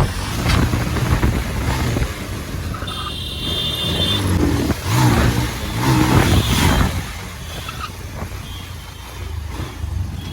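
Road vehicle noise from riding in traffic: a steady engine and road rumble. A short high-pitched beeping tone sounds about three seconds in, and a pitched, wavering engine sound about halfway through.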